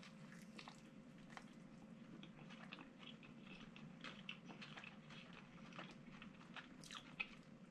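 Faint close-up chewing of a bite of crispy fried chicken sandwich: many small wet mouth clicks scattered throughout, a slightly sharper one about seven seconds in. A low steady hum sits underneath.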